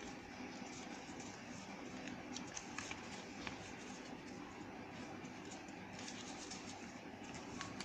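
Paper being folded and creased by hand: scattered light crinkles and scratches over a steady background hum.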